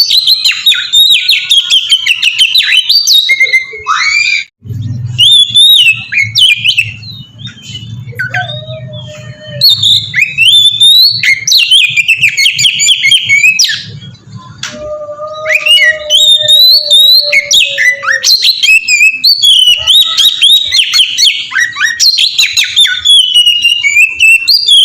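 Oriental magpie-robin (kacer) singing a loud, fast, varied song of high chirps, trills and whistles. Twice in the middle it holds long, level whistled notes. A low hum sits underneath through the middle stretch.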